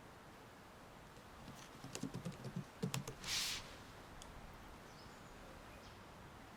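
Typing on a computer keyboard: a quick run of key clicks about two seconds in, followed by a short soft hiss, then a faint steady outdoor background.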